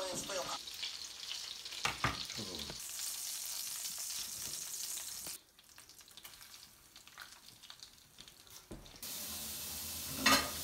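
Breaded chicken cutlets sizzling in a frying pan, with a few knocks of a spatula against the pan. The sizzle drops much lower for about three seconds midway, then comes back.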